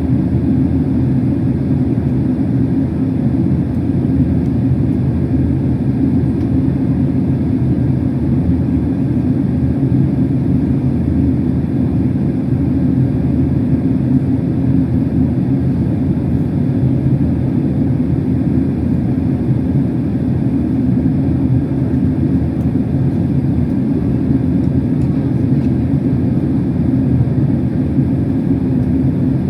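Steady cabin drone inside a Boeing 767-381 airliner: an even, low noise of engines and airflow with no change in level.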